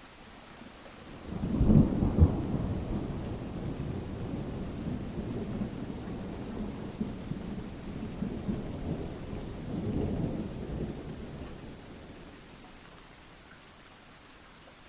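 Thunder in a rainstorm: a low rumble breaks in a little over a second in with a sharp, loud clap, rolls on, swells again about ten seconds in, then dies away, over steady rain.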